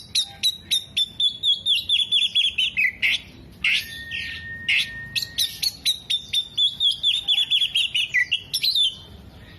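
Oriental magpie-robin (kacer) singing hard: rapid strings of loud, sharp chirps and fast falling trills, with one long steady whistle held for about two seconds near the middle. The song is packed with mimicked phrases of other birds such as sunbirds.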